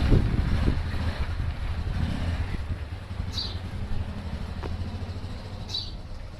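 Motorcycle running on a ride: a steady low rumble that slowly fades, with two short high chirps about three and six seconds in.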